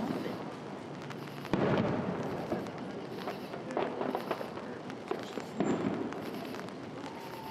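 Aerial fireworks bursting overhead: a series of booms, each with a rolling echo, the loudest about a second and a half in and more about halfway through and near the end.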